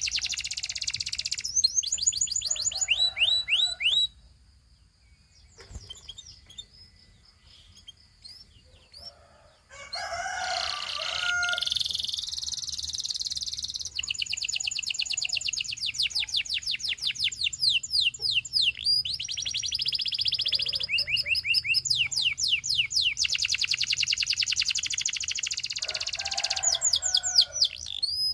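Domestic canary singing in long, rapid trills of quickly repeated high notes. The song drops to a lull a few seconds in, then resumes about six seconds later.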